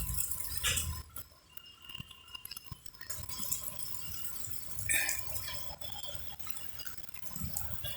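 Rain dripping and splashing, with irregular drops tapping and clinking on hard surfaces.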